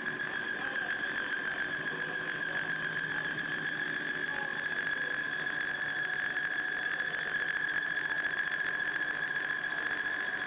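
Metal lathe running through a facing cut, with a steady high-pitched whine over the machine's hum that slowly grows louder.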